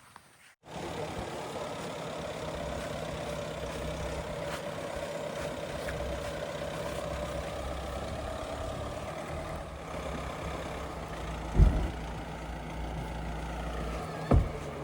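Heavy diesel engine running steadily under a light, even load. It begins abruptly just after the start, and two sharp low thumps stand out near the end.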